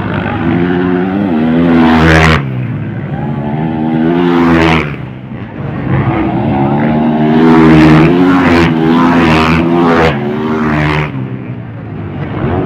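Motocross dirt bike engines revving hard, climbing in pitch and then cutting back sharply, about five times in a row as the bikes race past.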